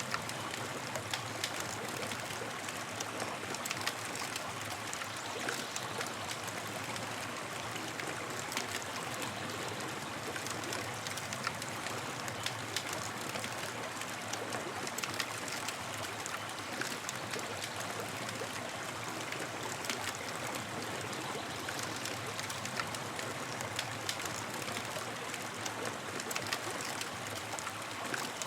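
Campfire crackling: a steady hiss of burning wood with frequent small, sharp pops scattered all through.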